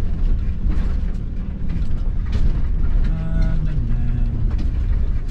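Road and engine noise inside a moving van's cabin: a steady low rumble, with a brief pitched sound about three seconds in.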